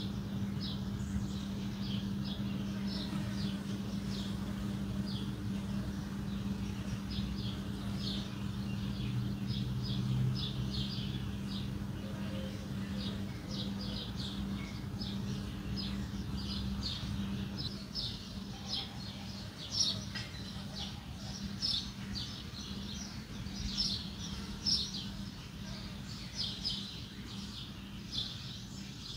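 Small birds chirping: many short, quick chirps, growing denser toward the end, over a steady low hum that eases off about halfway through.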